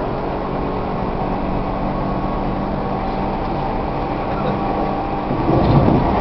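Tobu 1800 series electric train running, heard inside a passenger car: steady wheel and motor running noise with a few steady tones, swelling louder for about a second near the end.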